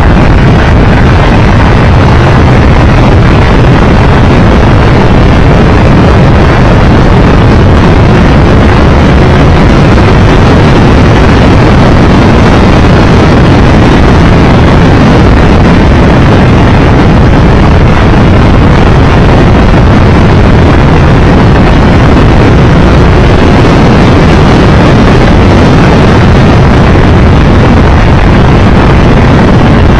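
Steady, very loud wind rush on the microphone over a Triumph Tiger Explorer 1200 motorcycle's engine running at a constant road speed while riding.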